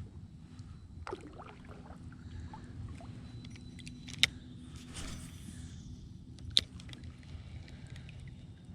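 Fishing kayak on the water: a steady low rumble of water and hull noise, with two sharp clicks or knocks about four and six and a half seconds in.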